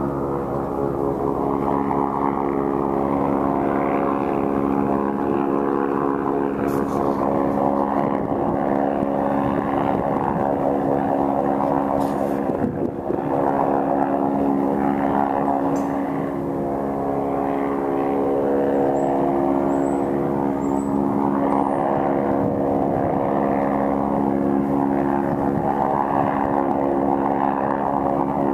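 Helicopter flying low overhead, its rotor and engine drone running steadily and loudly without letting up.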